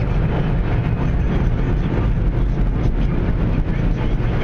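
Steady rumble and rush of automatic car wash machinery, heard from inside a car's cabin as the car rides the conveyor through the wash tunnel.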